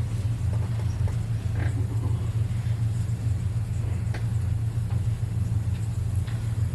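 Steady low rumble with a few faint clicks and knocks scattered through it.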